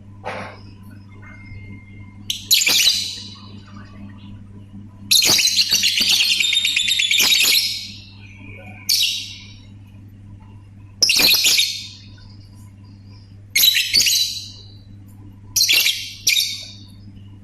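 Lovebird calling in a series of short, shrill bursts, with one long run of rapid chattering calls about five seconds in that lasts nearly three seconds. A faint steady low hum runs underneath.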